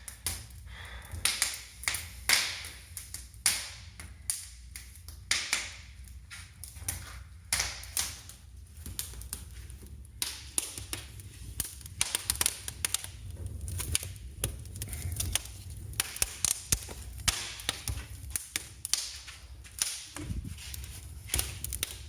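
Wood fire in a newly built brick fireplace crackling, with loud, irregular pops and snaps several times a second over a low steady rumble. The wood is popping hard enough to throw sparks far out of the firebox.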